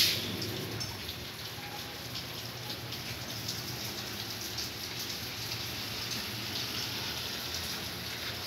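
Light rain pattering: a steady hiss with many small scattered ticks. There is a short knock right at the start.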